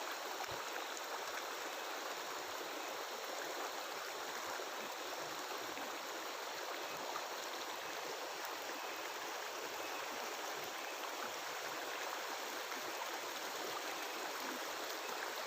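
A mountain river flowing over rocks: a steady, even babbling of running water.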